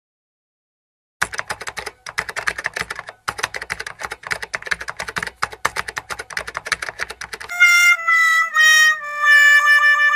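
Comedy sound effects: after a moment of silence, a fast run of rapid clicks for several seconds, then a held reedy wind-instrument tone that steps down in pitch over three notes, in the manner of a comic "wah-wah" letdown.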